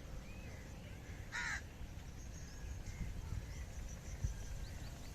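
A bird gives one short loud call about a second and a half in, with faint chirps from other birds and a low rumble underneath.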